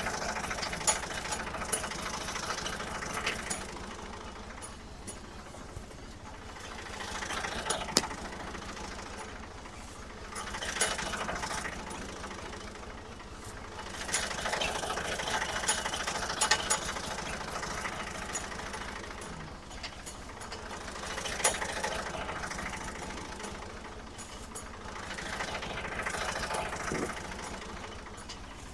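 1975 Ford 550 backhoe's diesel engine running steadily, its sound swelling and easing every few seconds as the machine works, with scattered sharp clanks and rattles.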